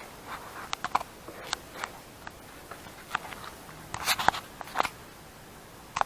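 Irregular handling noises: sharp clicks and short crinkly, crunching rustles, with a louder cluster about four seconds in.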